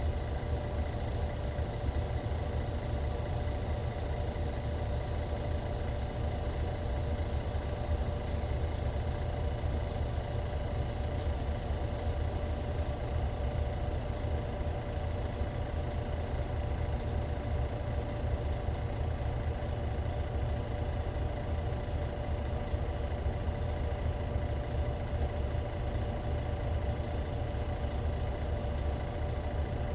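Hyundai Universe Comfort bus's D6CC Powertec 380 inline-six turbo-diesel running steadily at an unchanging pitch, with a deep rumble and a constant whine, heard from inside the bus.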